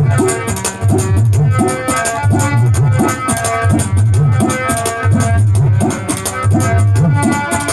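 Dholak rhythm imitated with the mouth: a steady beat of low, pitch-bending bass strokes and sharp high ticks, over sustained instrumental notes.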